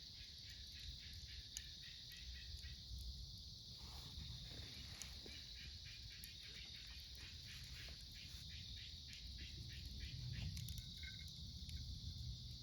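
Autumn crickets and other night insects: a steady high trill under a rhythm of chirps a few times a second. A few faint crackles of the wood fire and a low rumble sit underneath.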